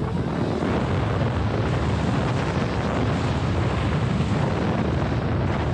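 Wind rushing over the microphone during a fast ride on a modified Razor MX6000 electric dirt bike: a steady loud rush with a heavy low rumble underneath.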